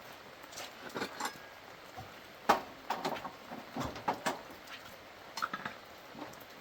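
Irregular light knocks and clinks, like small hard parts or tools being handled and set down, the loudest about two and a half seconds in.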